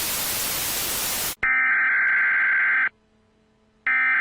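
Static hiss that cuts off sharply about a second and a half in, followed by two harsh electronic data bursts, each about a second and a half long, with a short silent gap between them: the encoded header tones that open an Emergency Alert System broadcast.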